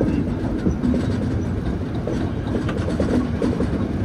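Passenger express train running along the track, heard from the coach doorway: a steady rumble of the wheels on the rails with clickety-clack from the rail joints.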